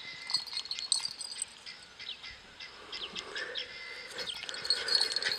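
Faint outdoor birdsong: small birds chirping in the background, with short repeated high chirps.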